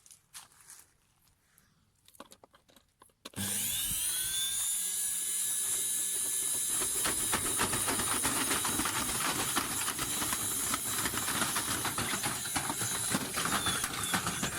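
A few faint clicks, then about three seconds in an electric motor starts abruptly, spins up to speed within a second and runs on steadily with a loud rattling, grinding clatter.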